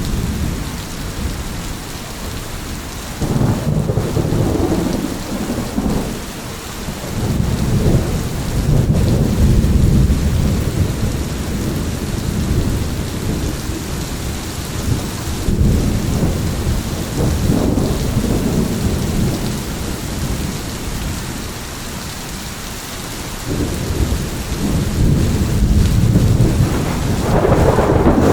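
Thunderstorm: steady heavy rain with rolling thunder rumbling again and again, swelling and fading in several long waves, the loudest peal near the end.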